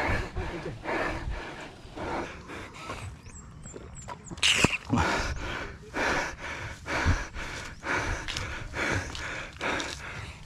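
A person panting heavily from exertion, a loud breath about once a second, with a few faint high chirps a few seconds in.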